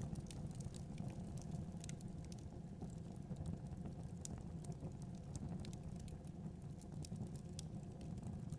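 Wood fire crackling in a fireplace, with many small irregular pops, over a steady low rumble of blizzard wind.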